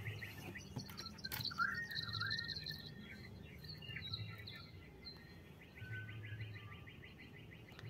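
Birds chirping in the background, with a fast trill heard at the start and again about six seconds in, over a steady low hum.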